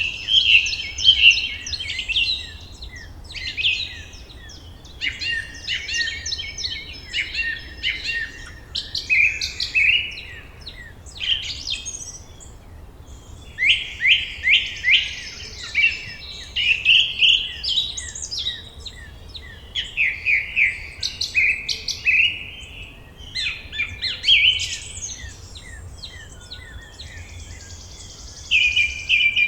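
Songbirds singing and chirping in a forest, overlapping series of quick high notes and rapid trills with short pauses between phrases.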